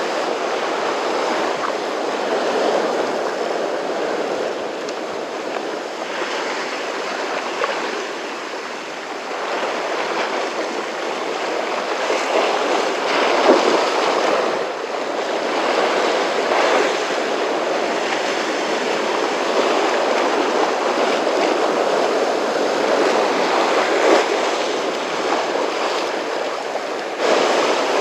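Rough, typhoon-churned sea surf washing in, a continuous rush that swells and eases every few seconds.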